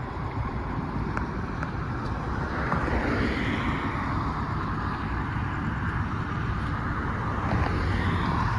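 Car noise: engine and road rumble, steady throughout.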